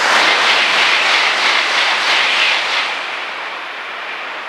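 Shinkansen train passing at speed, a loud rushing whoosh that peaks in the first second and fades over about three seconds.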